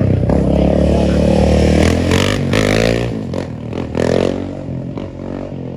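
Motorcycle engine running loud and steady, then revved twice, each rev climbing and falling in pitch, before it settles back to a lower running sound.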